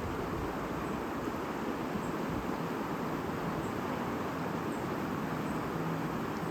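Steady murmur of a flowing stream, with a few faint, brief high chirps now and then.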